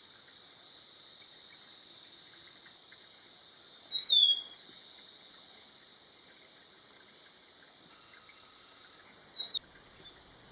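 Black-capped babbler giving a short, clear falling whistle about four seconds in and a fainter one near the end, over a steady high hiss of insects.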